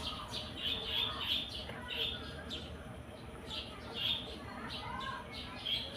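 Small birds chirping: a run of short, high chirps in quick clusters, with a few lower, arching whistled notes among them.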